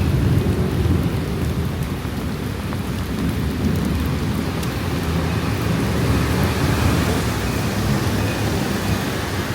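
Steady rain falling in an afternoon thunderstorm, with a low rolling rumble of thunder that is loudest about a second in and then rumbles on more softly.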